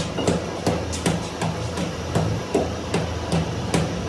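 Sharp knocks struck in a steady rhythm, about two or three a second, over a low steady hum, as of hammering during tractor tyre repair work.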